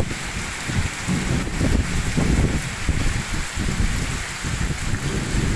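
Rain falling steadily in a thunderstorm, an even hiss with uneven low rumbling underneath.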